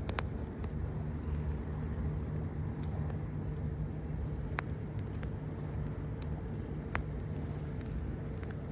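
Campfire burning: a steady low rush with a few sharp, isolated pops and crackles.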